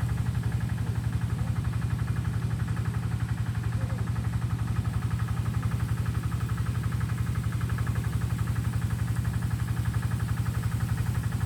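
An engine running steadily at idle, with an even, fast pulse and a strong low hum.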